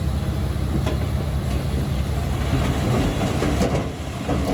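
Heavy diesel machinery running steadily, with scattered metallic clanks and rattles.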